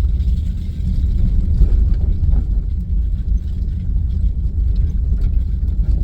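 Jeep driving over a bumpy snow-covered road: a steady low engine and road rumble, with light rattles and knocks.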